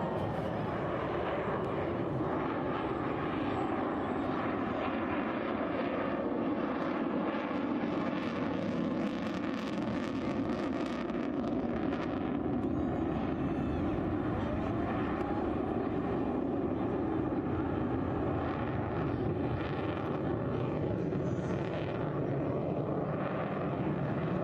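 Military jet aircraft flying over during an air show display: a steady, dense engine noise that holds a nearly even level throughout, with faint shifts in pitch.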